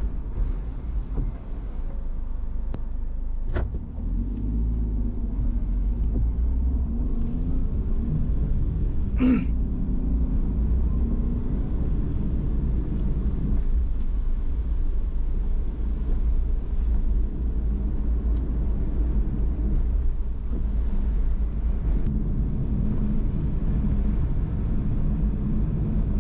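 Steady low rumble of a car on the move, road and engine noise heard from inside the cabin, with a brief click a few seconds in and a short sharp sound about nine seconds in.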